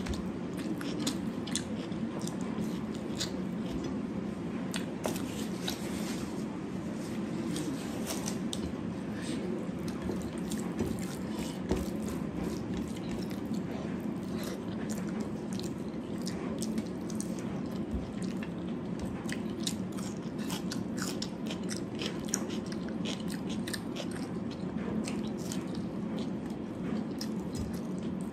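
Close-up sounds of a person eating: chewing and biting with many small crunchy clicks, over a steady low hum.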